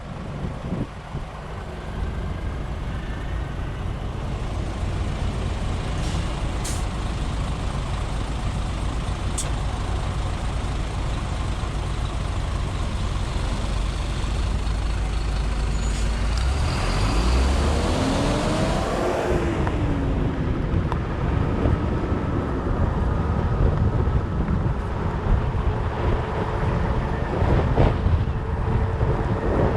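Wind buffeting the microphone over a steady low rumble while riding a fat bike. From about 16 to 19 seconds in, a louder whoosh swells and fades, carrying a whine that rises and falls.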